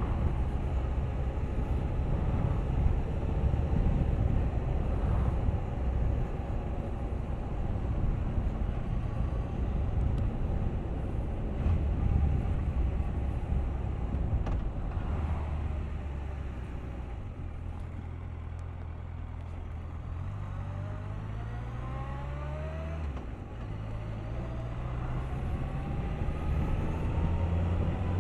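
Suzuki GSX1250FA's inline-four engine under way, with heavy wind noise on the microphone over the first half. In the second half the engine note climbs, drops suddenly at a gear change, then climbs again as the bike accelerates.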